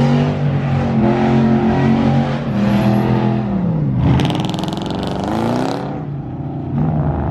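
Car engine revving hard: its note holds high, drops about three and a half seconds in, then climbs again under a harsh hissing burst before easing off near the end.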